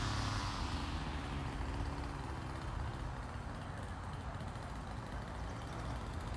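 Small two-stroke engine idling at low speed with an uneven rumble.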